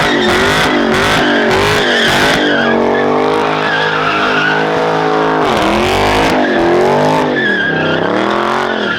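A car doing a burnout or donuts: the engine revs up and down several times and holds high revs for a few seconds in the middle, while the tyres squeal steadily against the pavement.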